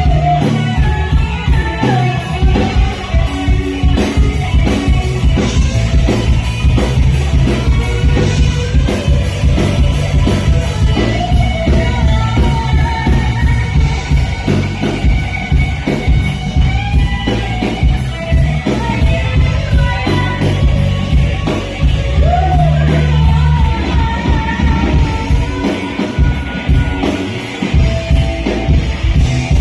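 Live rock band playing loud and steadily: drums, bass and guitars with a lead vocal singing over them.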